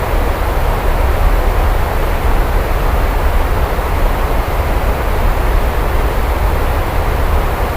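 Steady heavy rain with a constant deep low rumble beneath it. It stays even throughout, with no separate thunderclaps.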